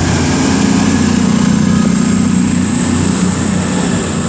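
Class 221 Voyager diesel-electric multiple unit pulling out of the station, its underfloor diesel engines running under power with a steady low hum and a thin high whine that rises slightly in pitch.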